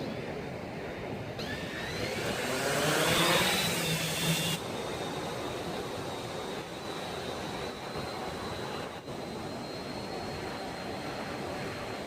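Quadcopter fishing drone's propellers whining as it flies the baited line out. The whine is loudest and slides in pitch a few seconds in, then settles to a thin steady high tone as it moves off.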